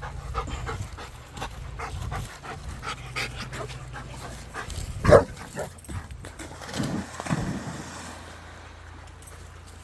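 A dog panting and whimpering in short irregular sounds, with one brief loud sound, such as a bark, about five seconds in.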